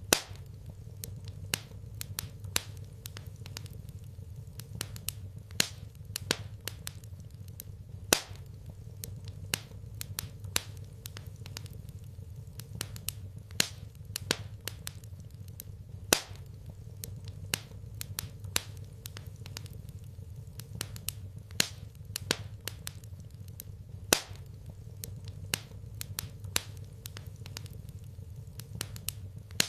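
Fire in a fireplace crackling, with irregular sharp pops of differing loudness over a steady low rumble.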